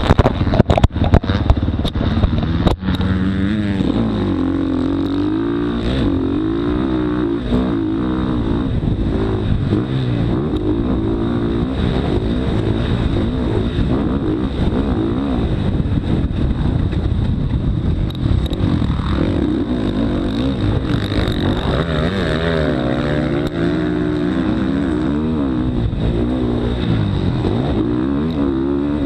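Motocross dirt bike engine revving, its pitch rising and falling again and again as the throttle is worked, with a few sharp knocks in the first three seconds.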